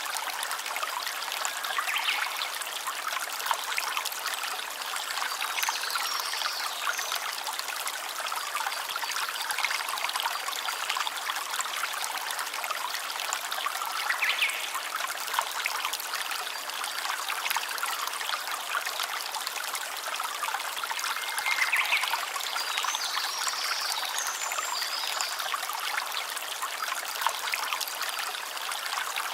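Shallow stream trickling and babbling over stones, a steady rush of water with many small splashes and drips.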